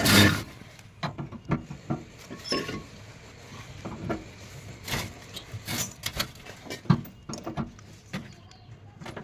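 A loud knock right at the start, then irregular clicks, taps and knocks, like objects being handled.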